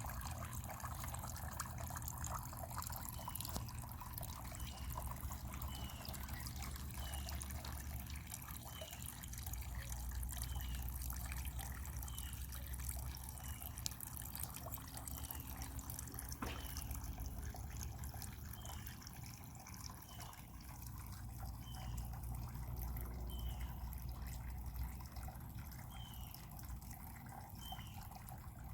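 Rain falling at night, with a steady wash of water and many small drips. A short, high, falling chirp repeats about once a second in the background.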